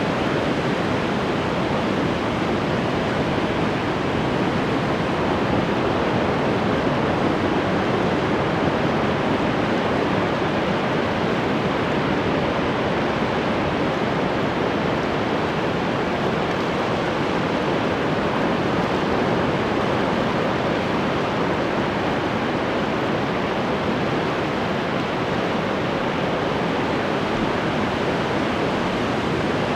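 Ocean surf: a steady, continuous wash of waves breaking on the shore, rising and falling only slightly in loudness.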